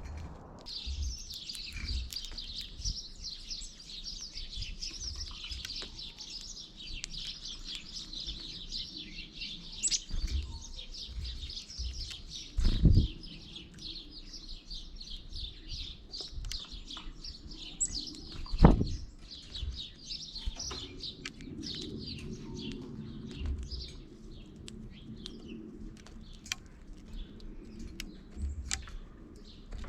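A flock of small songbirds chirping busily and almost without a break, thinning out to scattered chirps in the last third. Two loud thumps come through, about 13 seconds and about 19 seconds in.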